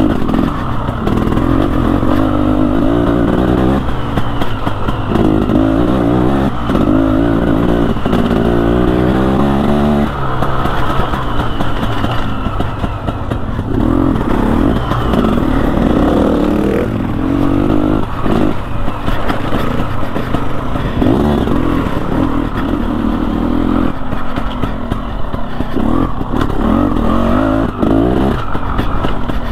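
KTM Freeride 250R two-stroke enduro bike engine, revved up and down over and over as it is ridden along a trail. Occasional knocks and clatter are heard.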